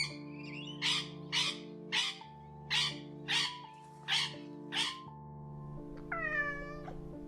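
Domestic cat: a run of seven short breathy bursts about every half second, then a single meow about six seconds in, over background music.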